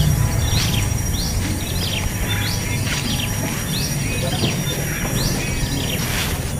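Nestling birds begging for food: repeated short, high chirps, one or two a second, over a steady low hum.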